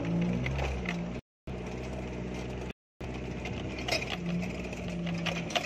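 Engine of a 4x4 off-roader running steadily at low speed on a rough dirt track, with a few sharp knocks. The sound drops out completely twice for a moment.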